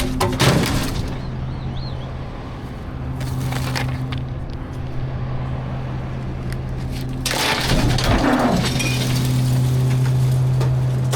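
Garbage truck engine running steadily while trash is thrown into the hopper, making crashing and breaking sounds: a short crash near the start, a smaller one a few seconds later, and a longer, louder crash about seven seconds in.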